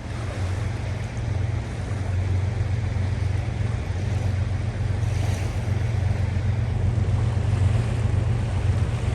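Steady rushing noise with a strong low rumble.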